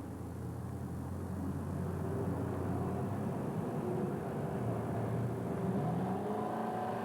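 A motor running steadily with a low hum, its pitch rising about five to six seconds in.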